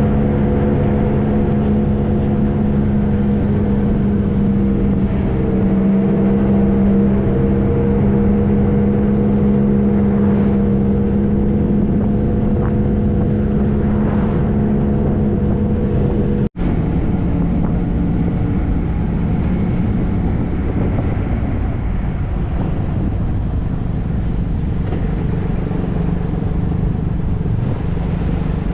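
Triumph Trophy SE's inline-three engine running at a steady cruise under wind and road noise. About two-thirds of the way through the sound cuts out for an instant, and afterwards the engine tone is lower and more buried in the wind noise.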